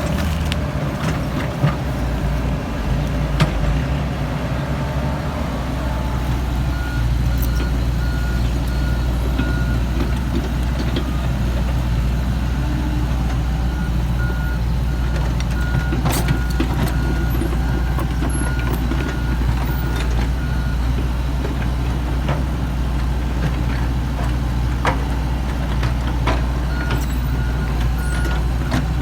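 Komatsu PC70-8 excavator's diesel engine running steadily with scattered knocks and clanks, while an alarm sounds in repeated short beeps for stretches of several seconds at a time, typical of a travel warning alarm when the machine moves.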